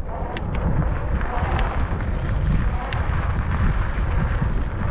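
Wind buffeting the microphone of a moving e-bike, a steady low rumble, with a few sharp clicks about half a second, one and a half seconds and three seconds in.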